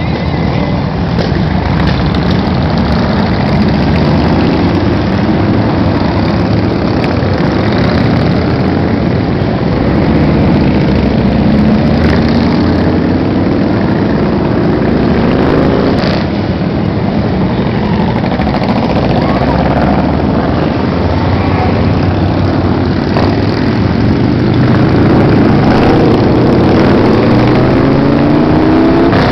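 Motorcycles riding together in a parade, their engines running steadily, with several rising revs as bikes accelerate.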